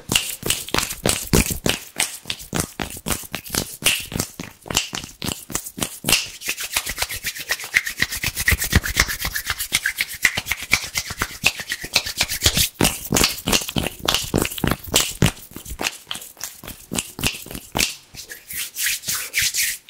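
Fast, aggressive ASMR hand sounds close to the microphone: hands rubbing with rapid, crisp strokes, many a second.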